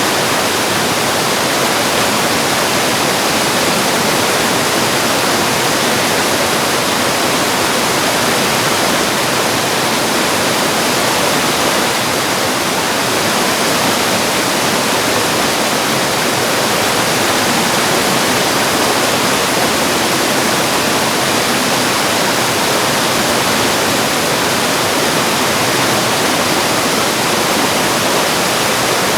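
Mountain valley stream rushing over rocks, a steady, unbroken sound of flowing water.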